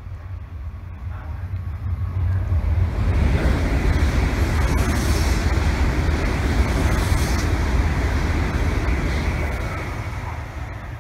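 E7/W7 series Shinkansen train passing on an elevated track: a rushing rumble that builds from about two seconds in, holds loud through the middle, and fades as the train pulls away.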